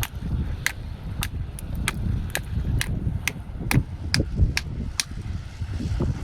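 Hammer whacking the hard shell of an alikreukel (giant periwinkle) to crack it open for bait: about a dozen sharp knocks, roughly two a second, over a steady rumble of wind on the microphone.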